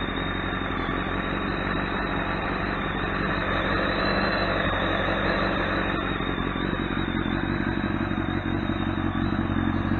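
A 2005 Kawasaki ZX-10R's inline-four engine idling steadily after a remote start.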